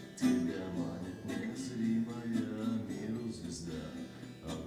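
Acoustic guitar strummed in a steady rhythm, music without singing.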